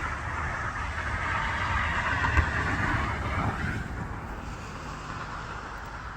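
Burning utility truck: a steady rushing hiss over a low rumble, with one sharp pop about two and a half seconds in. The hiss eases off a little after halfway.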